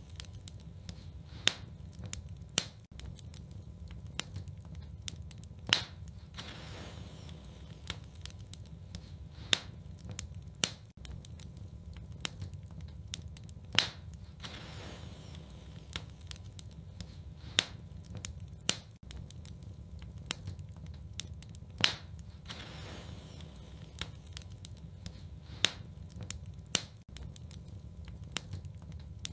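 Wood fire crackling in a fireplace: dense small crackles over a steady low rumble, with a sharp louder pop about every four seconds.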